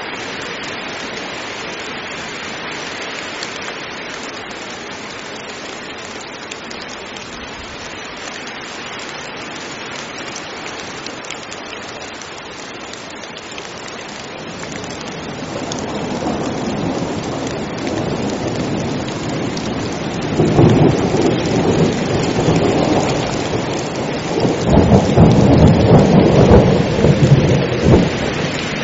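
Heavy rain falling steadily, with thunder rolling in about halfway through and building to two loud rumbles near the end.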